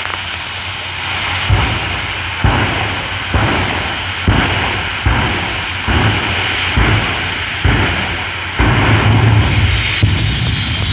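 The twin jet engines of a jet-powered fire truck are running with a steady high whine. About eight deep bursts come in a row, each under a second apart, then a continuous heavier rumble takes over near the end. A high turbine whine falls in pitch in the last second.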